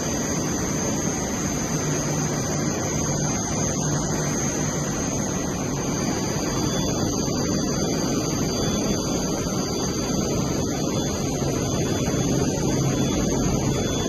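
Steady loud rumble of a metro station, with a constant low hum running underneath.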